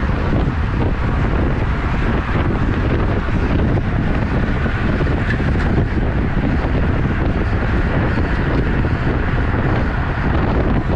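Wind buffeting the microphone of a camera on a moving road bike, a steady loud rushing noise heaviest in the lows.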